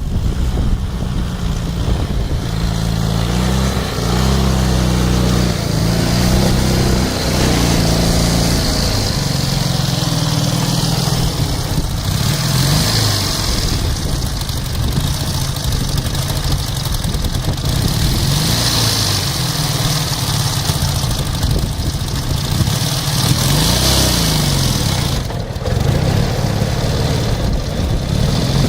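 Ural motorcycle's flat-twin engine running, its pitch rising and falling again and again as it is revved up and let back down.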